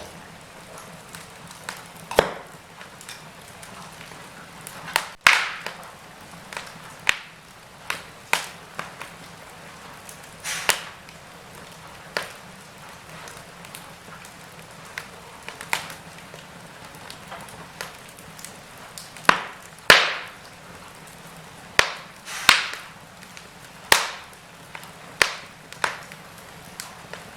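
Wood fire in a fireplace crackling: irregular sharp pops and snaps, every second or two, over a faint steady hiss. The loudest cracks come about five seconds in and again around twenty seconds in.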